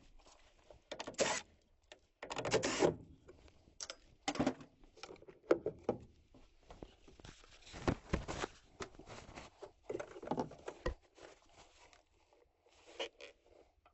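Irregular scraping, rustling and short knocks of hand work on a gas furnace during disassembly, with louder scrapes about two to three seconds in and again around eight seconds.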